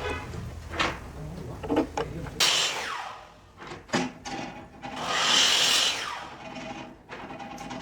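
A hand tool rasping or scraping on wood in irregular strokes, some about a second long, with a low hum under the first couple of seconds.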